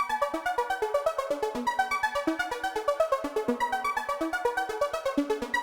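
Electronic music: a synthesizer playing a fast run of short, evenly spaced notes, about eight a second.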